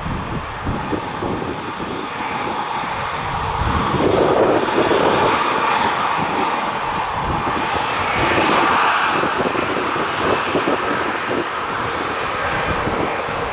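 Aircraft engine noise that grows louder about four seconds in and is loudest a little past the middle. Gusting wind buffets the microphone with irregular low rumbles throughout.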